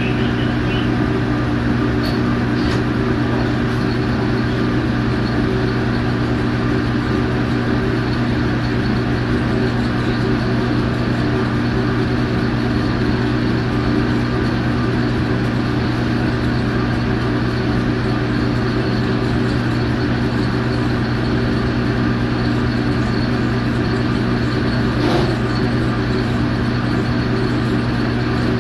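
Steady machine drone with a strong low hum and a faint high whine, unchanging throughout, with one faint click about 25 seconds in.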